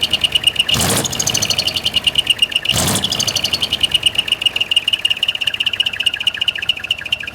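Decorated truck's split-manifold (mani-wari) exhaust idling with its muffler giving a rapid, high 'piko-piko' chirping pulse. Two short loud bursts break in about a second in and near three seconds.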